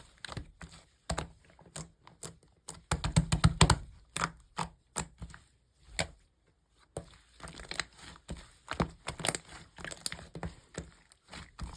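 Slime being squeezed and pressed by hand, giving many sharp clicks and pops in irregular runs. The clicking is densest and loudest about three to four seconds in, and pauses briefly around six seconds.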